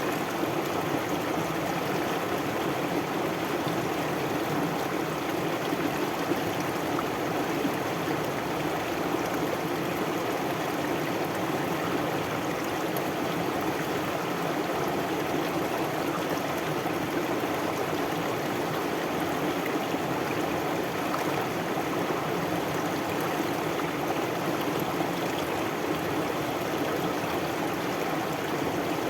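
Stream water flowing steadily over rocks, an even rushing and babbling with no change in level.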